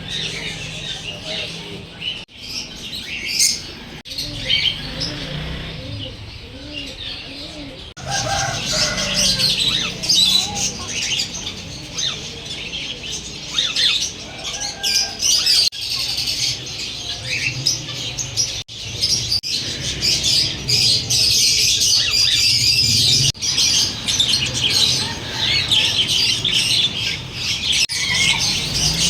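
Many small birds chirping and squawking together in a dense, overlapping chatter of short high calls, growing louder about eight seconds in.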